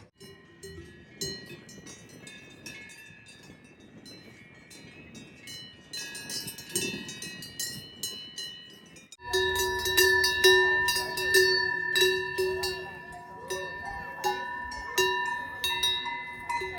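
Swiss cowbells on grazing cows, clanking and ringing irregularly. The bells sound fainter at first, then louder and closer from about nine seconds in.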